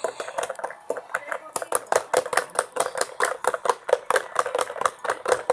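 Mini washing machine running its wash cycle, its drum and mechanism rattling in a fast, even clicking of about five clicks a second.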